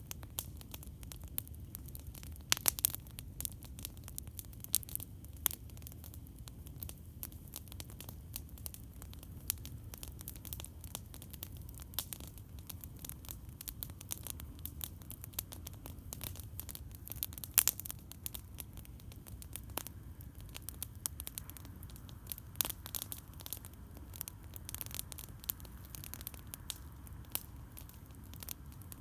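Campfire crackling and popping in irregular snaps over a steady low rumble, with the sharpest pops about three seconds in and just past halfway.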